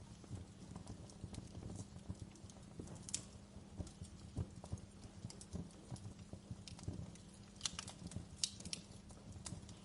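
Wood fire burning in a fireplace: a low steady rumble of the flames with irregular sharp crackles and pops from the burning logs, a denser run of louder pops near the end.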